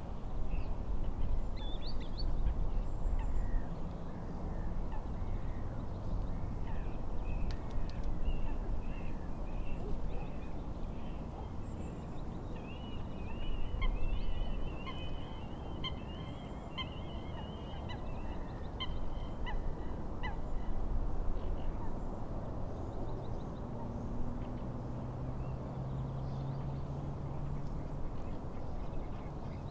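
Steady rushing of wind and lake waves, with birds calling over it and a rapid run of chattering calls in the middle. A low steady drone comes in for the last several seconds.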